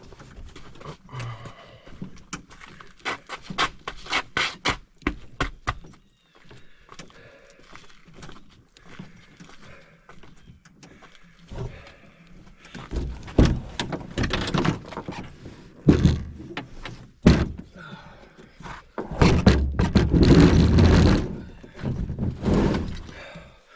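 A run of irregular knocks and thumps, with louder stretches of rough noise from about halfway through to near the end.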